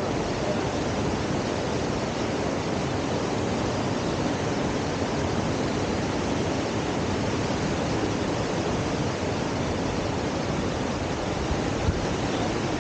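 Steady rush of fast-moving river water pouring over a standing surf wave.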